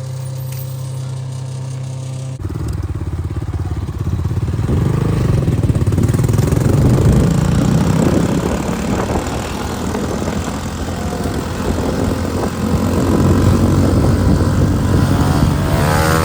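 A steady low hum, cut off suddenly about two seconds in by a motorcycle engine running and revving, getting louder from about four seconds in and staying loud.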